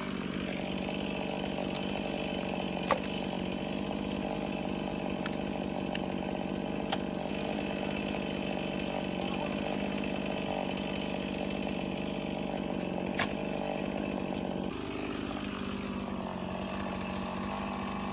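Two-stroke chainsaw running steadily at high revs while cutting firewood, with a few sharp clicks; about 15 seconds in its note drops slightly and changes.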